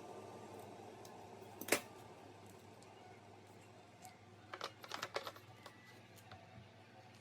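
Scattered light clicks and taps over a low steady hum: one sharp click, then a quick cluster of several clicks a few seconds later.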